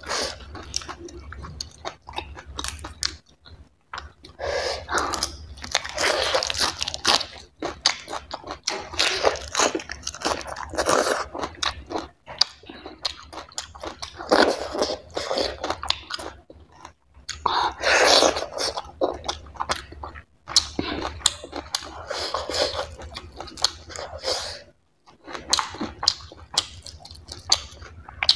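A person chewing and biting mouthfuls of chicken curry and barley dhido eaten by hand, close to a clip-on microphone. The chewing comes in irregular bursts with short pauses between mouthfuls.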